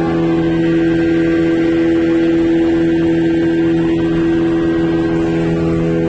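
An engine running at a steady speed, giving an even, unchanging drone.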